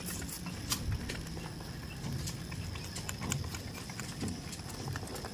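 Goats moving about, their hooves making scattered, irregular light clicks and knocks.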